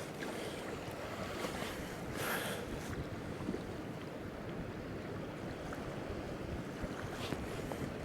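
Small waves lapping against a drifting kayak's hull, with wind noise, and a brief louder wash about two seconds in.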